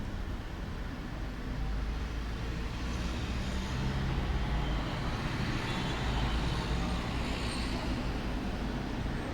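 Road traffic noise: a steady low rumble with a vehicle passing, swelling through the middle and easing off near the end.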